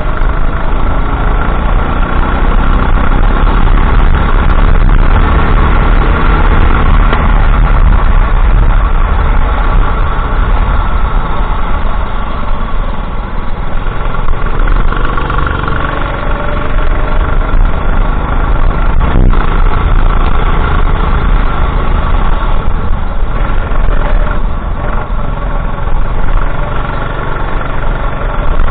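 Go-kart engine running continuously at racing pace, heard from on board, under a heavy low rumble.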